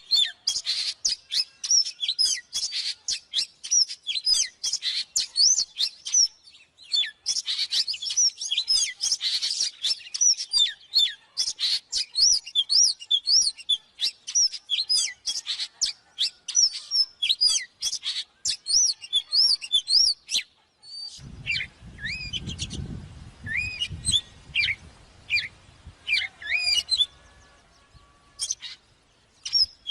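Oriental magpie-robin singing a fast, varied run of clear whistles and chirps, dense for about twenty seconds and then in sparser phrases. A low rumble joins briefly after about twenty seconds.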